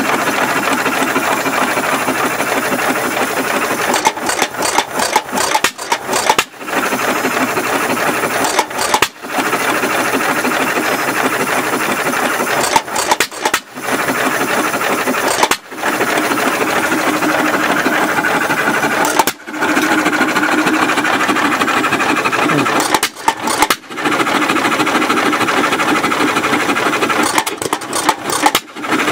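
Rebuilt antique Alamo Empire single-cylinder stationary engine running with a fast, busy mechanical clatter, breaking off briefly several times.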